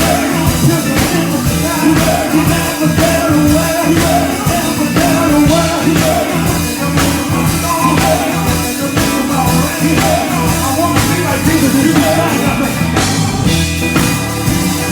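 Live gospel band music: a drum kit keeps a steady beat under bass and a wavering melodic line.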